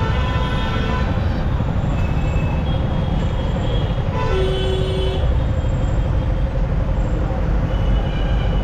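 Steady wind rush and road rumble from riding a motorcycle in traffic, with other vehicles' horns sounding at the start and again briefly about four seconds in.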